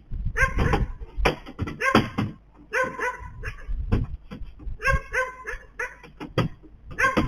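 A dog barking repeatedly, short pitched barks about once a second, beginning suddenly.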